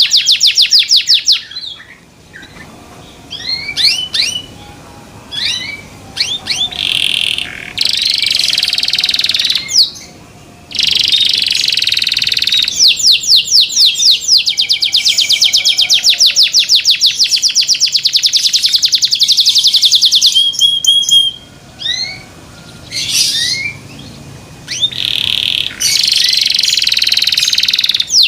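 Domestic canary singing loudly: long, very fast rolling trills broken by a few short pauses filled with scattered chirps.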